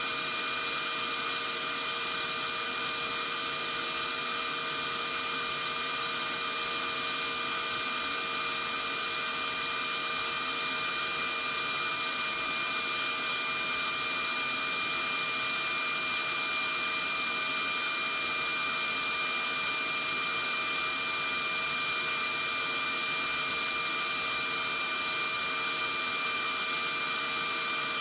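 Vacuum cleaner motor running steadily: an unbroken, high-pitched hiss with a steady whine.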